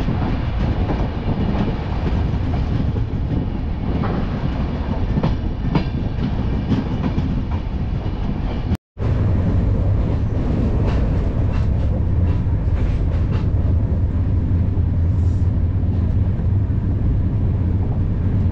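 Chandigarh–Amritsar Superfast Express running on the track, heard from an open coach door: steady running noise with irregular sharp clacks of the wheels over rail joints. After a cut about nine seconds in, a steadier, heavier low rumble is heard from inside the coach.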